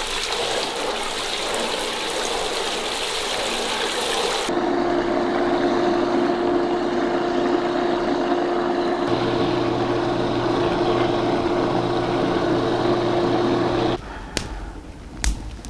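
Running water splashing. About four and a half seconds in it cuts abruptly to a steady machine hum with a constant pitch, mixed with water noise; the hum shifts around nine seconds in and stops suddenly near the end.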